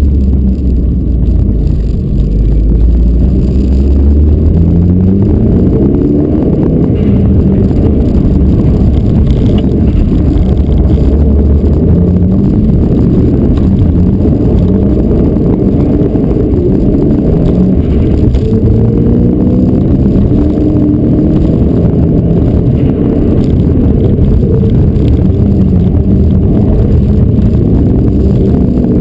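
Mitsubishi Lancer Evolution rally car's turbocharged four-cylinder engine under hard acceleration, heard from inside the cabin: its pitch climbs and drops back again and again as it is driven up through the gears, over a loud, dense rumble of road and tyre noise.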